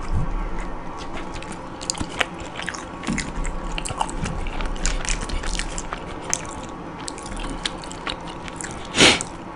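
A person biting and chewing a burrito close to the microphone, with irregular wet smacking and clicking mouth sounds. A short, louder rush of noise comes near the end.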